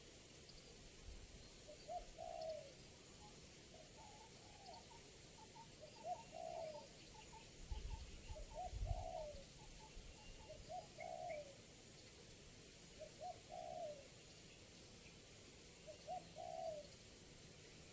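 Spotted dove (tekukur) cooing: a phrase of a few short notes ending in a longer falling coo, repeated about every two to three seconds. A couple of faint low thumps come about halfway through.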